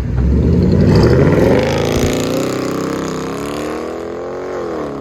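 Straight-piped 5.7 L HEMI V8 of a Dodge Charger revving up, rising in pitch over about the first two seconds. It then holds and eases lower while slowly getting quieter.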